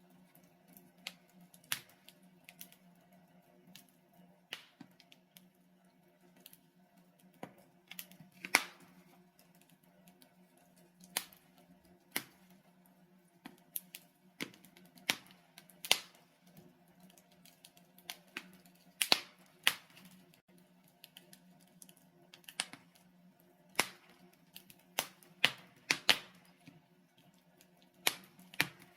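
Burning logs in a fireplace crackling and popping: irregular sharp snaps, one or two a second, some louder than others, over a faint steady low hum.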